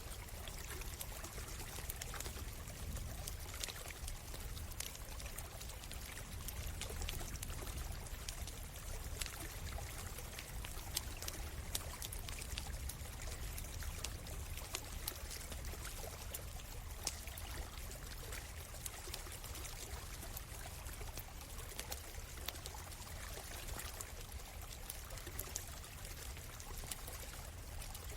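A stream flowing steadily, with a wood campfire crackling and popping over it in frequent sharp snaps.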